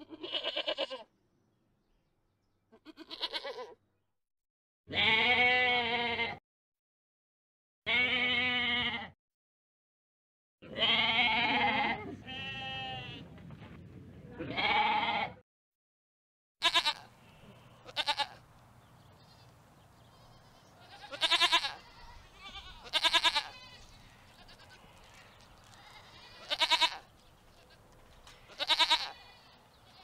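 Goats and sheep bleating: a run of long, quavering bleats with short pauses between them, then shorter, sharper bleats every couple of seconds over a faint background hiss.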